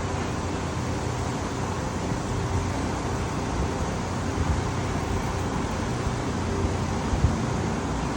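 Heavy rain falling, a steady even hiss with a low hum underneath.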